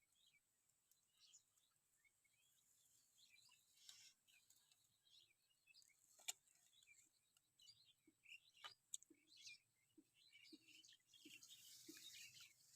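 Faint bird chirps and calls, with a few sharp clicks and some soft low taps in the second half.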